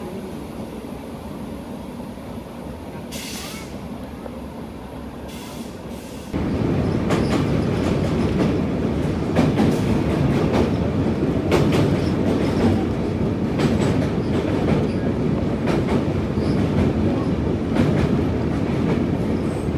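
Indian Railways express passenger train running along the track: a steady wheel-and-rail rumble with scattered sharp clicks. The rumble jumps suddenly louder about six seconds in and stays there.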